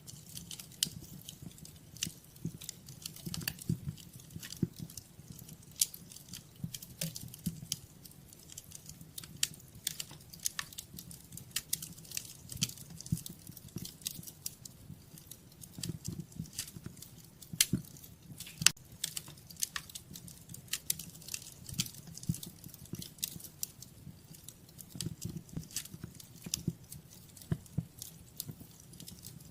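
Wood fire in a fireplace crackling: irregular sharp pops and snaps over a low, uneven rumble of the flames.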